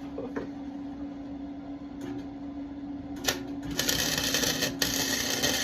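Arc welding on an exhaust pipe: two bursts of sizzling crackle as a tack weld is laid, starting a little under four seconds in with a short break between them, over a steady hum.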